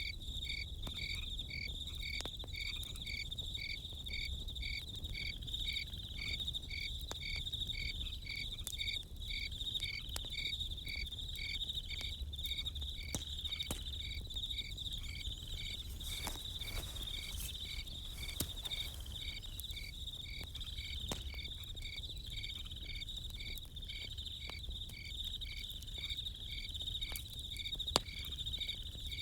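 Crickets chirping steadily: a continuous high trill with a second insect pulsing evenly at about three chirps a second. Occasional sharp campfire crackles, one louder snap near the end, over a low rumble.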